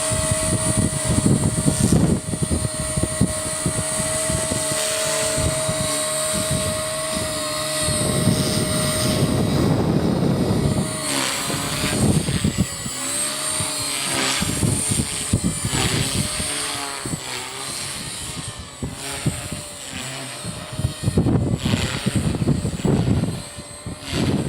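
Small electric RC helicopter (Align T-Rex 250) in flight: the motor and rotor whine holds a steady pitch for the first nine seconds or so, then wavers up and down as the helicopter is flown about. Strong wind buffets the microphone in gusts throughout.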